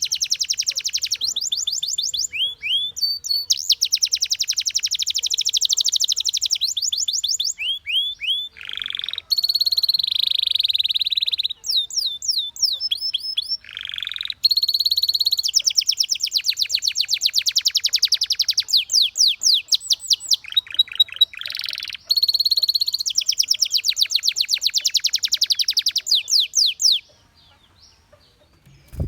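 Canary singing: fast rolling trills of rapidly repeated notes alternating with short held whistled tones, in phrases broken by brief pauses. The song stops near the end.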